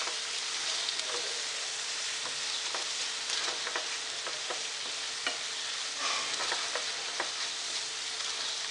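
Spiced onion-tomato masala sizzling in oil in a nonstick pan while a wooden spatula stirs it: a steady frying hiss with scattered light scrapes and taps of the spatula against the pan.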